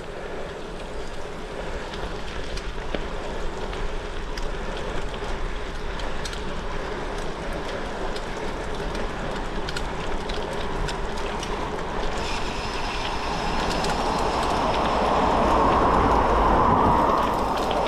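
Gravel bike tyres (Goodyear Connector) rolling over a gravel track, with wind noise and scattered small clicks. The rolling noise grows louder about two thirds of the way through as speed builds.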